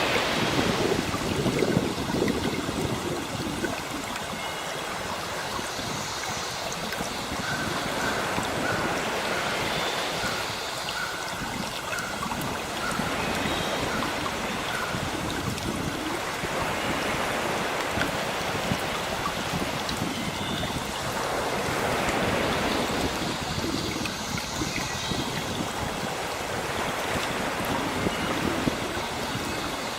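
Sea waves washing ashore, a steady rush that swells and eases every several seconds, with faint high bird calls in patches.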